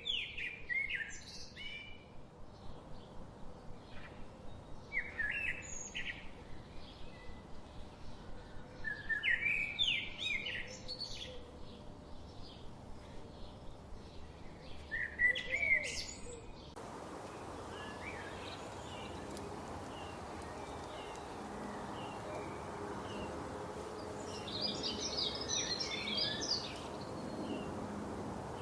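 Songbirds singing in short phrases of chirps and trills, every few seconds, over a regular pulsing background. About two-thirds of the way through, the background changes abruptly to a steadier hiss with faint scattered chirps, then a dense burst of song.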